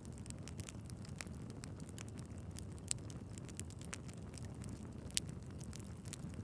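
Wood fire crackling in a fireplace: a steady low rumble of flames under many small sharp crackles, with two louder pops, one about three seconds in and one about five seconds in.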